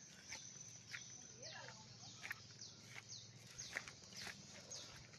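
Faint bird chirps: short high notes, each falling in pitch, repeated about twice a second over a steady thin high-pitched tone, with a few soft clicks.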